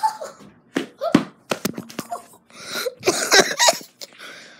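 A boy's short wordless vocal sounds right at the microphone, in several bursts, mixed with knocks and rustles of a handheld phone.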